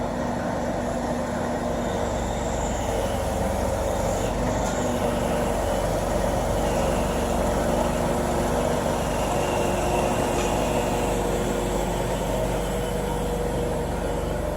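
Forklift engine running steadily while the forks are raised on the lift lever.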